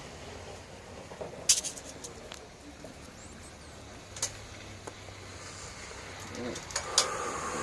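Hand tools and engine parts knocking together while a small engine is taken apart: a few separate sharp clicks, about a second and a half in, near four seconds, and twice close together near the end.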